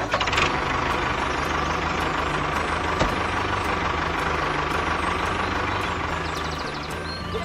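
A small motor running steadily, with a constant whine over a low hum. There is a single sharp click about three seconds in.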